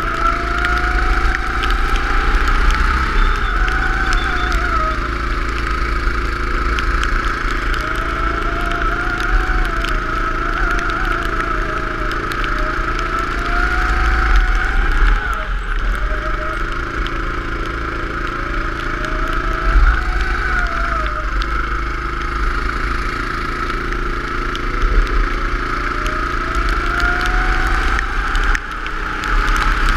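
Go-kart engine running on track, its pitch rising and falling again and again as the kart speeds up and slows, over a heavy low rumble. The engine note dips briefly about halfway through and again near the end.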